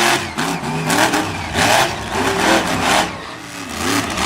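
Monster truck engine revving hard in repeated surges, its pitch climbing and dropping about five times.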